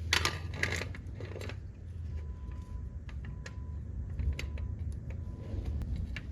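Scraping in the first second and a half, then scattered light metallic clicks and clinks over a steady low rumble.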